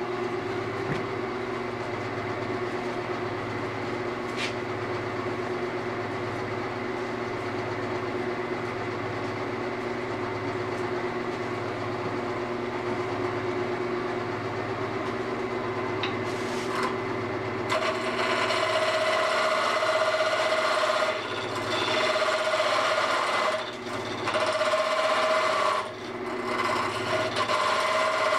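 Wood lathe running steadily with a constant motor hum. About two-thirds of the way through, a gouge starts cutting the spinning wood, a louder scraping sound that comes in passes with short breaks.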